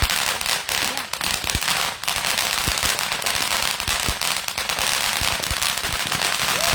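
Small consumer fireworks crackling: a dense, rapid run of pops and snaps, like a lit firecracker string, that stops suddenly at the end.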